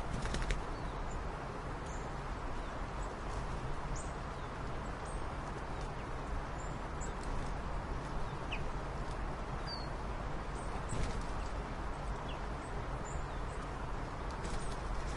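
Sparse short, high chirps of birds over a steady background noise.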